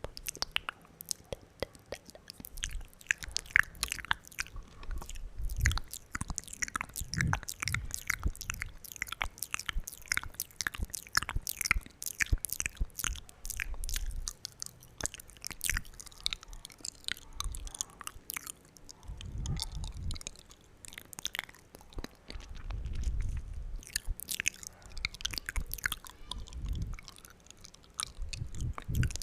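Loud wet mouth sounds close to the microphone: a rapid, irregular stream of wet clicks and smacks of tongue and lips, with a few low muffled thumps.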